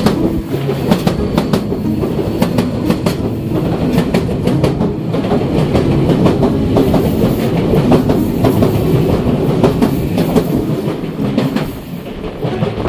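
Sagami Railway (Sotetsu) electric commuter train running past at close range, its wheels clacking unevenly over the rail joints. The sound eases a little near the end.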